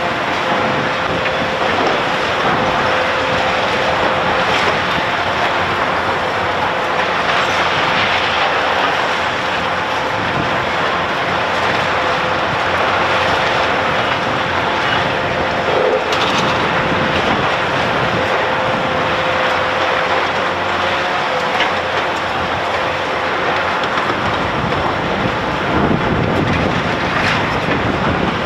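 Heavy construction machinery working: a loud, steady mechanical noise with a held tone through much of it and a few scattered knocks.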